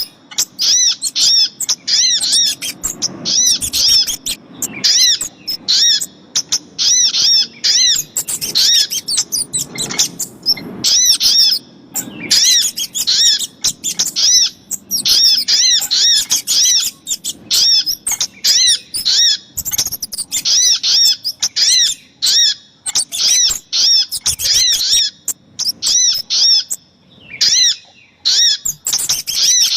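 Recorded bird-lure calls of sogok ontong and kemade, small songbirds. A fast series of high, arched chirps, about four or five a second, comes in runs broken by short pauses.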